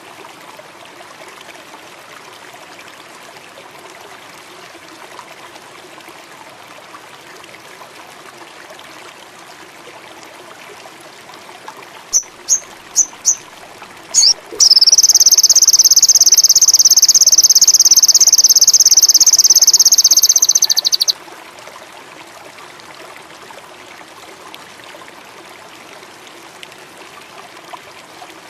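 Songbird giving four short high chirps, then a loud, high, fast trill held for about six seconds before it stops abruptly, over a steady background of running water.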